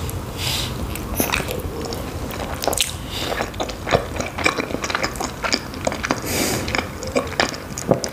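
Close-miked eating sounds of small khinkali dumplings in cream sauce: a bite into the soft dough, then wet chewing and lip smacking with many small clicks.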